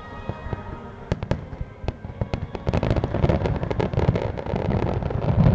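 Fireworks: a few sharp bangs about a second in, then from about halfway a dense run of rapid bangs and crackling that grows louder toward the end.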